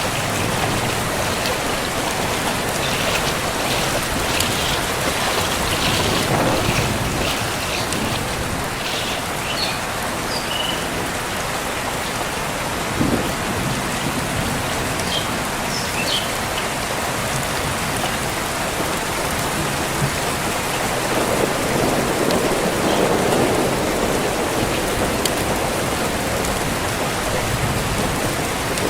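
Heavy rain falling steadily, a dense even hiss of rain on surfaces, swelling somewhat louder for a few seconds about three quarters of the way through.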